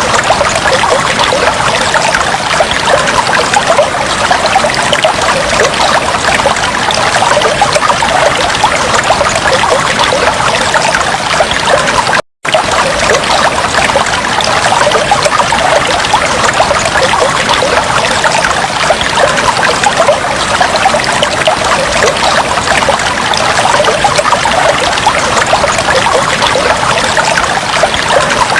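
Aquarium water trickling steadily, a dense, even splashing hiss, with a brief drop-out to silence about twelve seconds in.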